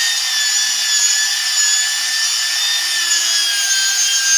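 Handheld electric sander running steadily against a synthetic solid-surface tabletop, a dense abrasive hiss with a high motor whine that sags slightly in pitch over the seconds.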